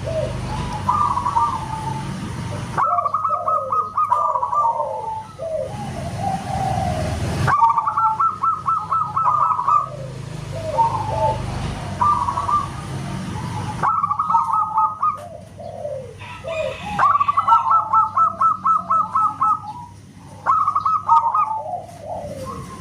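Zebra doves (perkutut) cooing: song phrases repeated every few seconds, each a quick run of high staccato notes followed by lower, falling coos, with more than one bird overlapping. The background hiss changes abruptly a few times, as if separate recordings were joined.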